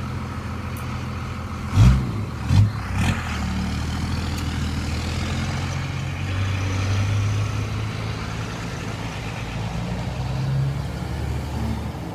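Cars and trucks driving past with a steady low engine rumble that swells a little in the middle, and three sharp thumps about two to three seconds in.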